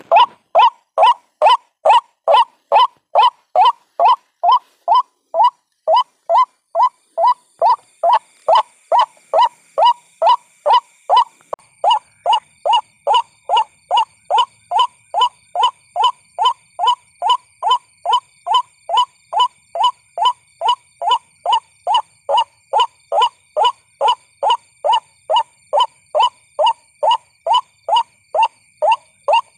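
White-breasted waterhen calling: one short note repeated over and over at about two a second, evenly spaced, the lure call used to attract waterhens.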